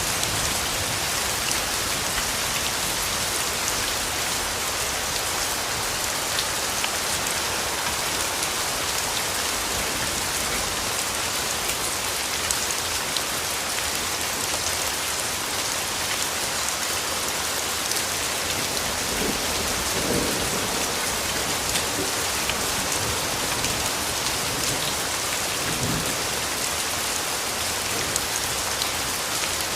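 Steady rainfall, an even hiss of drops hitting surfaces, with a faint low rumble of distant thunder about two-thirds of the way through.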